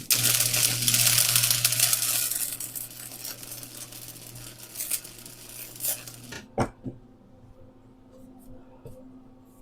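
Electric arc welding: a crackling, hissing arc with a steady low hum, laying a weld on the minibike's steel triple tree. It runs for about six seconds, loudest for the first two and a half, then cuts off abruptly, followed by a few light clicks.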